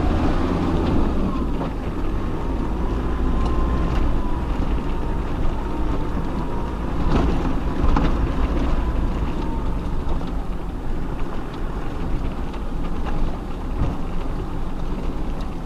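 Off-road vehicle's engine running low and steady as it crawls over a rough track, with a faint high whine for several seconds and a couple of short knocks about seven to eight seconds in.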